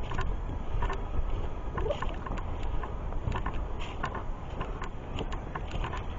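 Footsteps of hikers on a woodland dirt trail, irregular crunches about twice a second, over a steady low rumble of wind and handling on the microphone.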